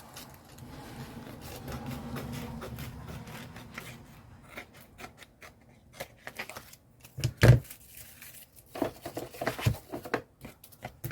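Paper and craft materials being handled on a work surface: a few seconds of soft rubbing, then scattered taps and rustles, with one louder knock after about seven seconds.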